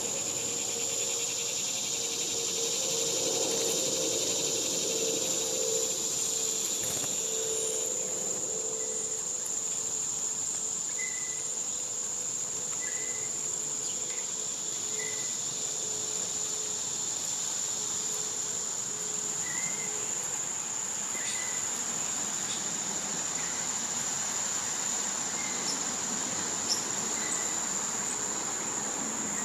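Steady high-pitched drone of a summer cicada chorus, with short high chirps repeating about every two seconds in the second half.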